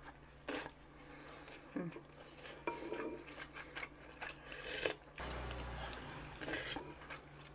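Eating utensils clinking and scraping against dishes in scattered light clicks, with a brief low rumble about five seconds in.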